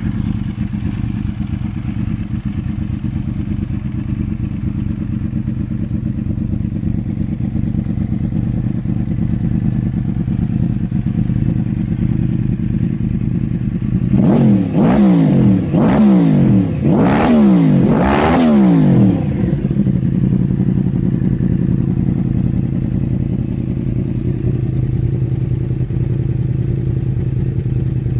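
Yamaha R1's crossplane inline-four idling through an aftermarket exhaust, then blipped four times in quick succession about halfway through, the revs rising and falling each time before it settles back to a steady idle.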